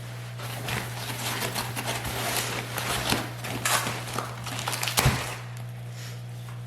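Rustling, scraping and clattering as packaging and exhaust pipe sections are handled, with one sharper knock about five seconds in. A steady low electrical hum runs underneath.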